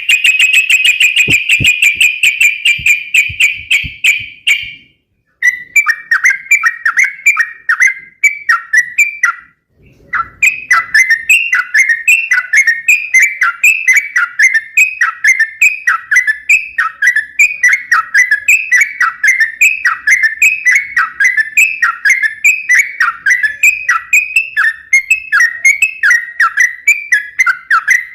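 Yellow-vented bulbul singing vigorously: a trill held on one pitch for about four seconds, then, after two short breaks, a long run of quick, falling chirps repeated two to three times a second.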